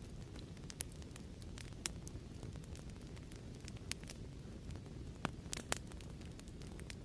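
Fireplace crackling: a steady low rumble of burning wood with irregular sharp pops and snaps, two louder pops a little after five seconds in.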